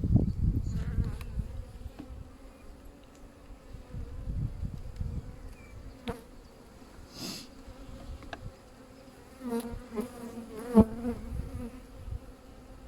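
Honeybees humming steadily around an open hive during an inspection, over a low rumble. There is a short hiss about seven seconds in and a sharp knock near the end.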